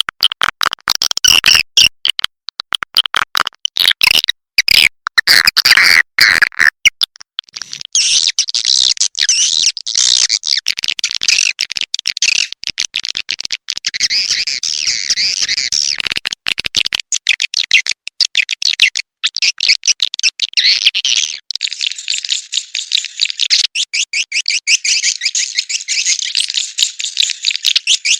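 Recorded swiftlet calls played as a lure: high, rapid chirping and chattering in quick stuttering pulses, the call sound used to draw swiftlets into a bird house. The calls are choppy for the first several seconds, then settle into a denser, continuous chatter.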